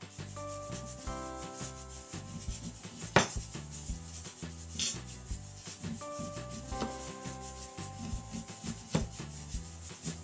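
Knife slicing through a raw onion on a wooden cutting board: repeated scraping cuts and light knocks of the blade on the board, with one sharp knock about three seconds in the loudest.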